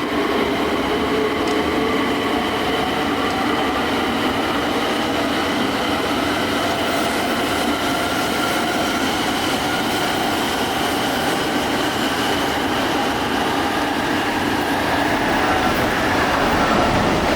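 Shinkansen train moving through the station, its drive giving several steady whining tones over a running rumble.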